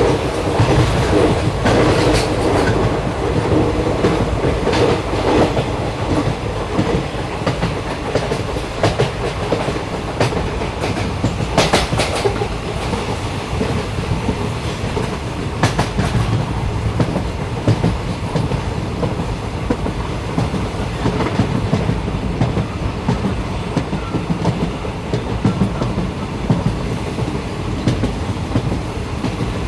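Passenger train running, heard from inside the carriage: a steady low rumble of wheels on track, with clickety-clack over rail joints. Sharper clicks come now and then, the strongest about twelve and sixteen seconds in.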